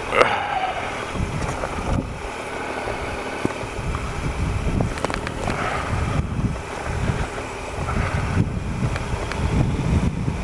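Triumph Explorer XCa's 1215cc three-cylinder engine running at low speed, the rumble swelling and easing with the throttle, with wind rushing over the camera microphone.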